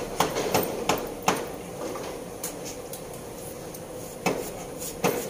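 Scattered metallic clicks and knocks of hand tools and engine parts being handled during engine installation, clustered at the start and again near the end, over a steady low hum.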